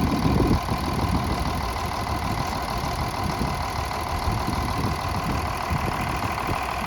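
Farm tractor engine running steadily at low revs.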